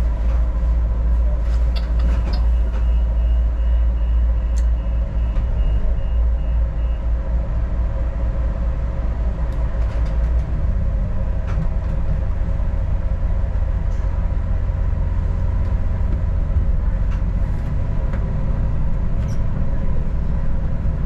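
Inside a moving diesel railcar: a steady low rumble from the engine and the wheels on the track, with a faint steady whine and scattered small clicks and rattles. A faint, high, pulsing tone sounds from about two to seven seconds in.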